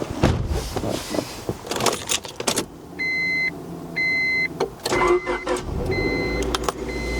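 A few seconds of handling clatter and clicks, then an electronic beeper sounding a steady half-second beep once a second. About five seconds in, a low engine-like rumble starts under the beeps.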